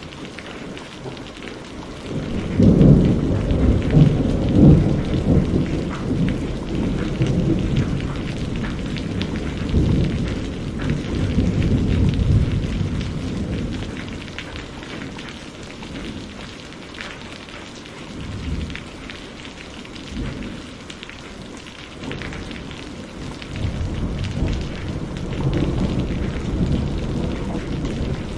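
Steady rain with rolling thunder. A long rumble starts about two seconds in, is loudest over the next few seconds and fades away over about ten seconds; a second rumble builds near the end.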